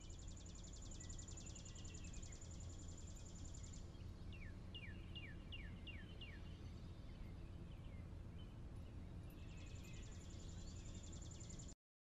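Faint morning birdsong ambience over a low steady rumble: a high, rapid trill at the start and again later, and in the middle a run of about seven quick down-slurred chirps. It cuts off suddenly near the end.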